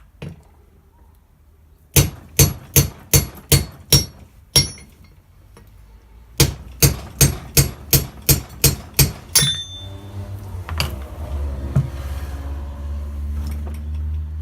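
Hammer striking metal on a car's rear differential parts in two runs of quick, ringing blows, about two and a half a second. A steady low hum follows near the end.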